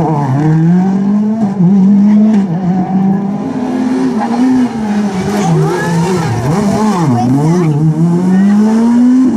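Rally car engine revving hard, its pitch climbing with each gear and dropping sharply on shifts and throttle lifts, several times over.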